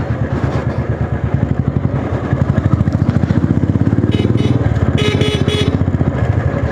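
Motorcycle engine running steadily while ridden, a low rapid rumble of firing pulses. A brief, pulsing high-pitched sound joins in about four to five seconds in.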